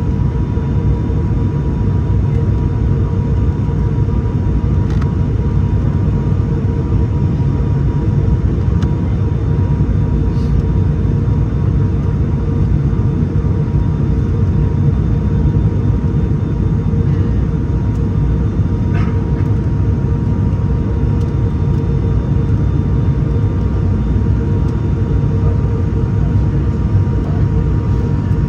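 Steady cabin drone of an ATR 72-600's twin turboprop engines and propellers heard from inside the passenger cabin: a dense low rumble with a steady humming tone over it.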